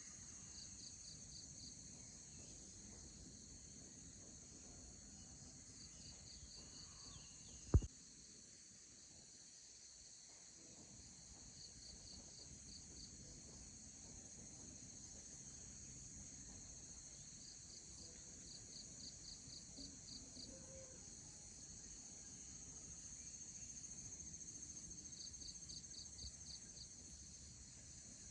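Field insects trilling steadily in a high, continuous chorus, with a short train of rapid pulsed chirps repeating every six seconds or so. A single sharp click sounds about eight seconds in.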